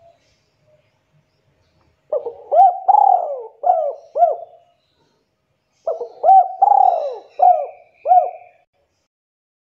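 Spotted dove (tekukur) cooing: two phrases of about five rising-and-falling coos each, a couple of seconds apart.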